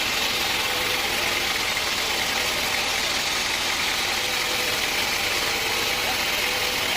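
Sawmill machinery running steadily, an even mechanical noise with a faint constant hum and no change in load.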